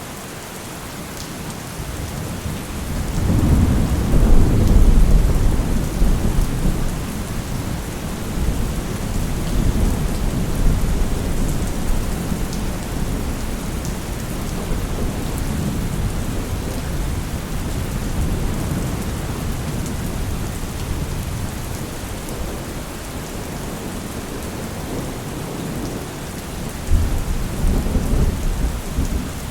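Steady rain with rolling thunder: a long low rumble swells about three seconds in and fades over several seconds, and another rumble comes near the end.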